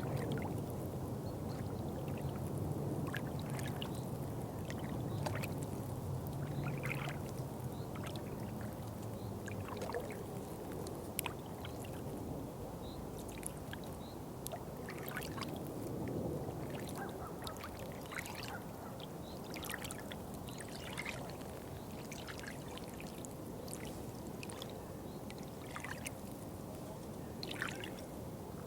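Water trickling and running steadily, with many small drips and splashes scattered through it. A faint low hum fades away in the first third.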